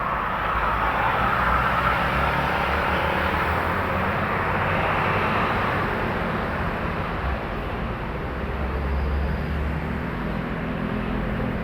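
Trucks passing close by on a busy highway: steady tyre roar and low engine rumble, swelling over the first couple of seconds and easing off after about six, with another deep engine rumble near the end.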